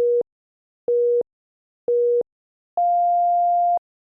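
Electronic interval-timer countdown: three short beeps a second apart, then one longer, higher beep marking the end of the countdown and the switch to the next interval.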